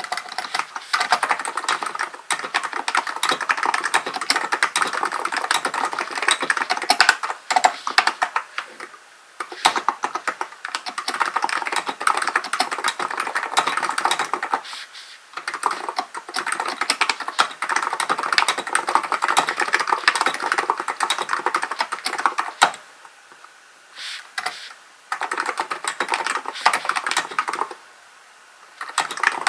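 Typing on a Hansung GK898B electrostatic capacitive keyboard: fast, continuous runs of key clicks broken by short pauses of a second or two.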